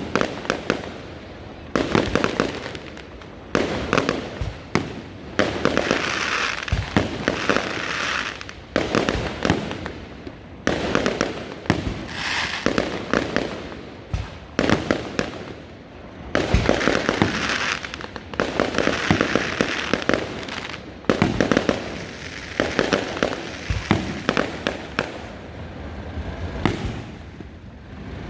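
Fireworks display: shells bursting one after another every second or two, with crackling between the bangs.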